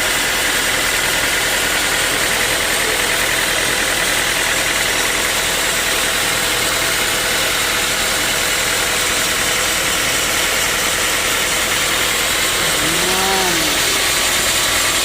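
Sawmill machinery running steadily, with an engine-like drone and a dense hiss. About thirteen seconds in there is a brief tone that rises and falls in pitch.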